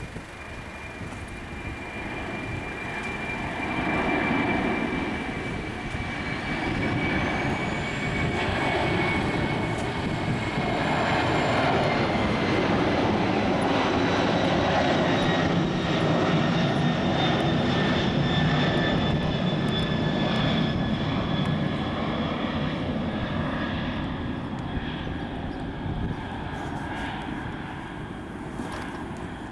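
Boeing 747-400 jetliner's four turbofan engines, loud as the airliner goes by, building up and then easing toward the end. A steady engine whine slowly drops in pitch throughout.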